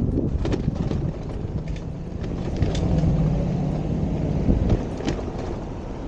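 Low rumble of a motor vehicle in city traffic, with a steady engine hum for a few seconds in the middle and a few sharp clicks.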